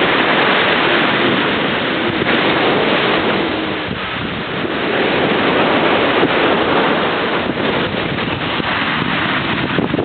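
Strong ocean surf: waves breaking and washing in a continuous rush, easing briefly about four seconds in before building again, with wind buffeting the microphone.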